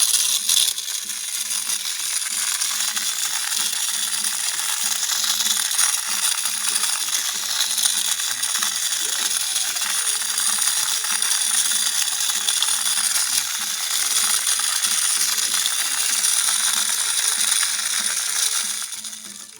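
Cordless mini desktop vacuum cleaner running with a steady high-pitched whine and a busy rattling hiss. It starts suddenly and cuts off near the end.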